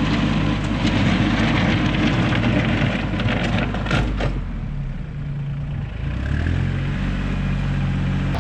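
Engine of a working machine running steadily, its pitch changing in the second half, with a burst of clattering knocks about three to four seconds in.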